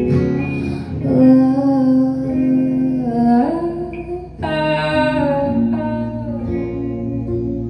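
Live band music: a singer holds long, drawn-out notes, stepping up in pitch twice, over guitar.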